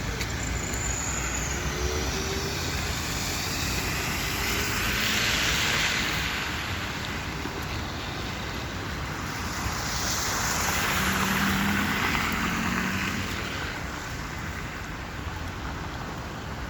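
Heavy downpour with wind: a steady rushing hiss of rain that swells louder twice, about five seconds in and again near the middle.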